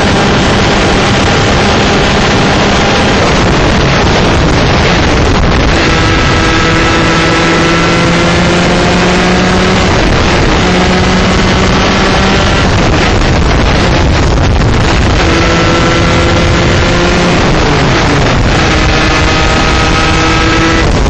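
A 125cc two-stroke shifter kart engine at racing speed, its pitch climbing slowly through a gear, then breaking off and climbing again several times as it shifts and brakes for corners. Heavy wind rush on the microphone runs under it throughout.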